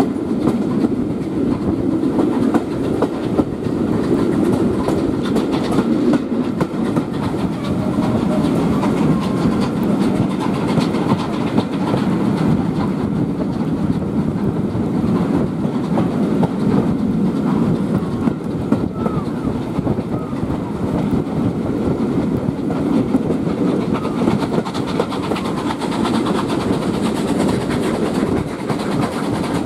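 Passenger coaches of a steam-hauled train running along the line, heard from an open carriage window: a steady rumble with a continual clatter of wheels over the track.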